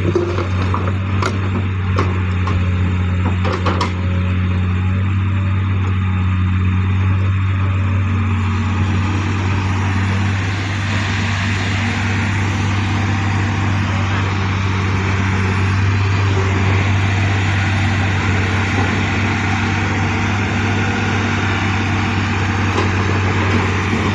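Heavy engine running steadily, with a constant low hum and a few sharp clicks in the first few seconds.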